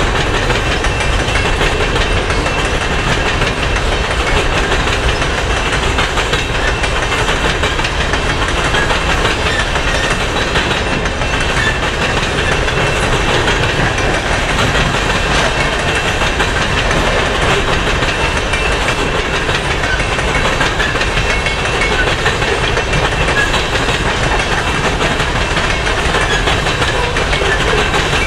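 Loaded coal cars of a long freight train rolling steadily past at close range, the steel wheels running on the rails with no let-up.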